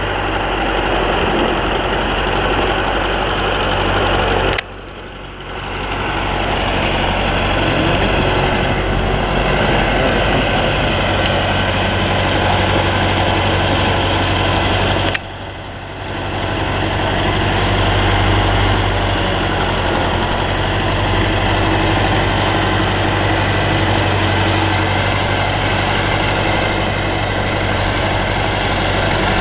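Heavy road-repair machinery engine running steadily. The level drops sharply twice, about five and fifteen seconds in, then builds back up.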